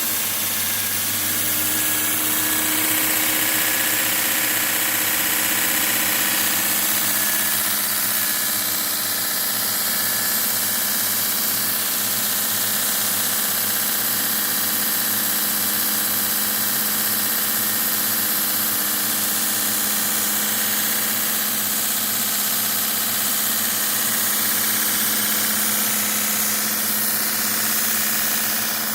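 Homemade 75x2000 mm belt grinder running steadily, its motor humming evenly under the hiss of the moving abrasive belt.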